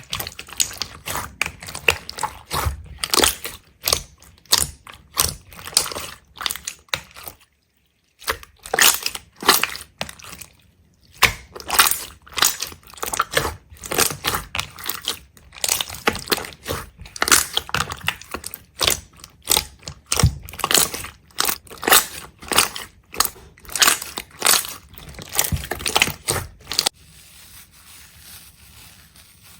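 Crisp crunching and crackling, a few sharp crunches a second, as of something brittle being pressed or crushed. It breaks off briefly about seven and a half seconds in and fades to a faint hiss near the end.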